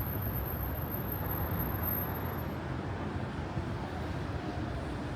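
Steady city traffic noise: a continuous low rumble of cars on a wide boulevard, with no single vehicle standing out.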